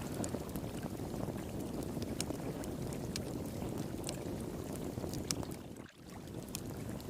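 Wood fire pit crackling with scattered sharp pops over the steady rush of flowing water. The sound dips briefly about six seconds in.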